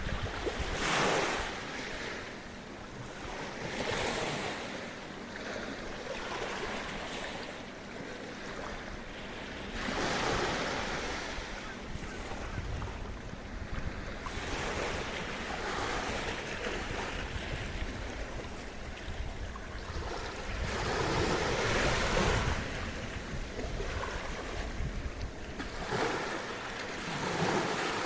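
Gentle waves breaking and washing on the shore of a quiet bay, surging and ebbing every few seconds, with wind buffeting the microphone.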